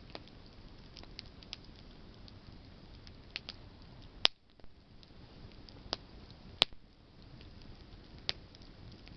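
Wood campfire burning with a steady low hiss of flame and scattered sharp crackles and pops of burning branches, the loudest two about four and six and a half seconds in.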